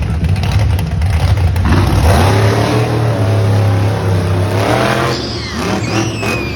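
Monster truck engine revving up about two seconds in, holding at high revs, then easing off near the five-second mark.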